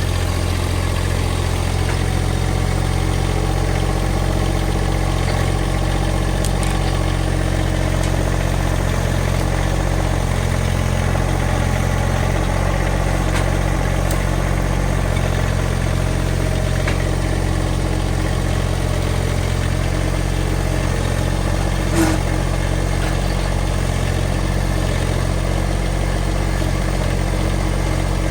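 An engine idling steadily at a constant speed, with a single sharp knock about three-quarters of the way through.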